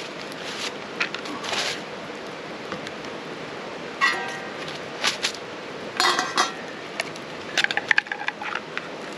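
Camp cooking gear and food containers being handled: scattered knocks and clinks, two of them ringing briefly, then a quick flurry of small clicks near the end, over a steady background hiss.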